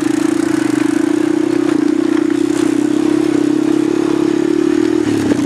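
250-class ATV engine running steadily under throttle, with a brief easing-off about five seconds in.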